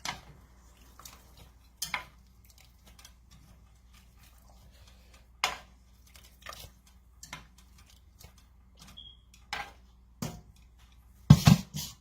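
Kitchen utensils clinking and knocking against dishes and a pot in scattered single strikes, with a louder cluster of knocks near the end.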